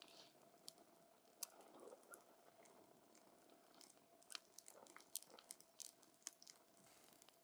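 Wood campfire crackling quietly: burning logs giving off irregular sharp snaps and pops, coming more thickly from about halfway through.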